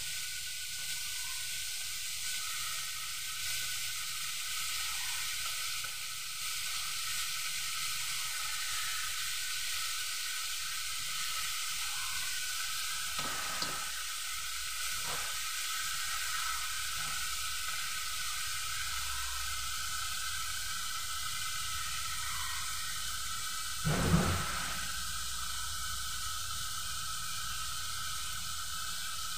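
Native chicken pieces sautéing with ginger, onion and garlic in a wok over a charcoal fire, sizzling steadily. One dull knock near the end.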